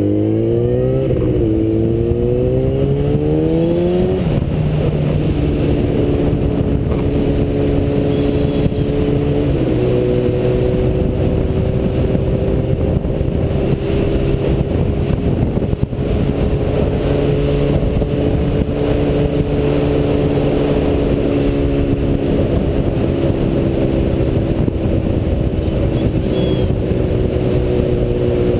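Yamaha FZ1 inline-four engine pulling away under acceleration, its pitch rising then dropping at upshifts about one and four seconds in, then cruising at nearly steady revs. Wind rushes over the helmet-mounted camera throughout.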